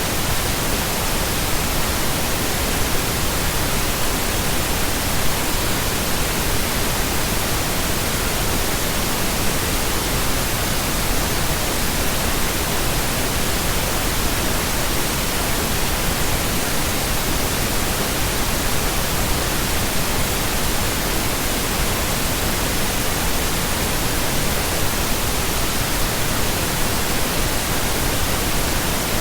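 Steady, unchanging pink noise: an even hiss spread across the whole range, with no breaks.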